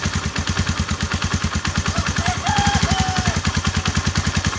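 RKS 150 Sports Evo motorcycle engine idling: a steady, even putter of about ten beats a second.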